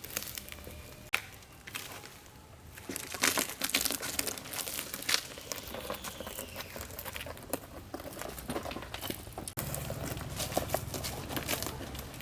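Dense, irregular crinkling and crackling of something being handled or crumpled, growing busier about three seconds in.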